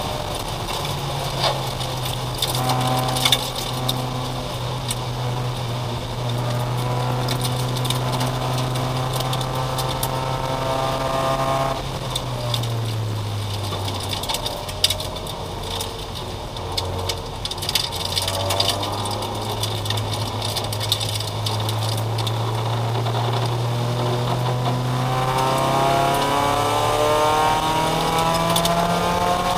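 Race car engine heard from inside the cockpit, holding a steady note. It eases off and drops in pitch partway through, then picks back up and climbs near the end as the car accelerates.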